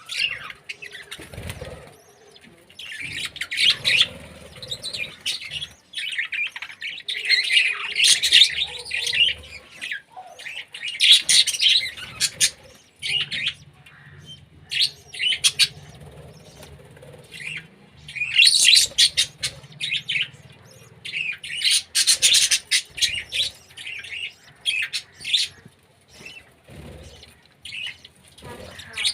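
Small birds chirping in repeated bursts of rapid high chirps, a few seconds apart.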